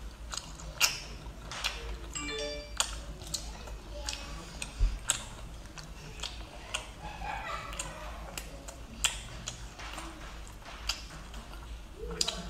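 Close-miked chewing of octopus: irregular wet clicks and mouth smacks, one or two a second. Faint background music underneath.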